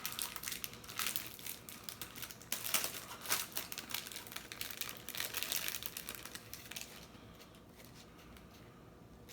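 Packaging of a three-cookie pack of Oreos crinkling and rustling as it is opened by hand, in quick irregular crackles for about seven seconds before stopping.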